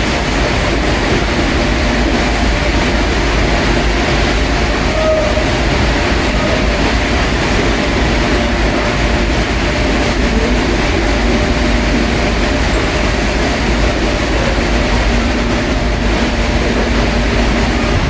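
Steady rumble of an Airbus A320-232 heard from inside the passenger cabin, with faint steady hums under it.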